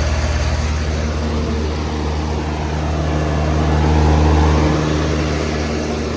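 2003 Trane Odyssey heat pump outdoor unit running, very loud: a steady low hum from the compressor under the rush of the condenser fan. It swells louder about three to four and a half seconds in, then eases.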